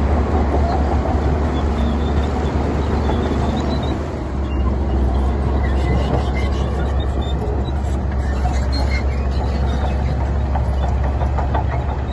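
Heavy diesel engine of earthmoving machinery running steadily with a low drone, dipping briefly about four seconds in.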